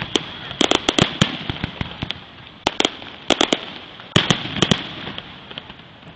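Fireworks display: aerial shells bursting in quick clusters of sharp bangs, several groups of two to four reports within a few seconds, with a steady hiss between them.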